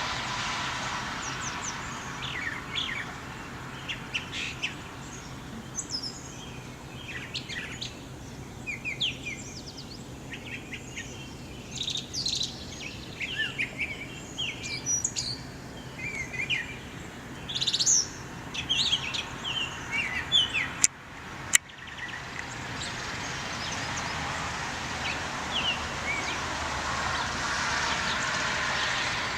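Bird calling: a busy run of short, high chirps and quick trills, thickest through the middle, over a steady background noise, with a brief cut-out about two-thirds of the way in.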